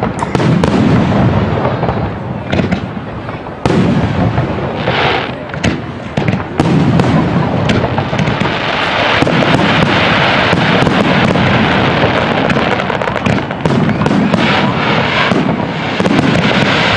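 Aerial fireworks display: shells bursting one after another with sharp booms. About halfway through they become a dense, continuous barrage of bursts and crackle.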